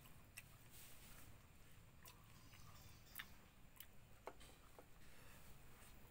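Quiet eating by hand: soft chewing of jengkol and rice, with a few faint clicks from hand and food against the dishes.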